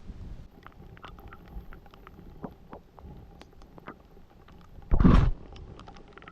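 Rain falling: scattered, irregular raindrop ticks. About five seconds in comes one loud, short, muffled bump on the microphone.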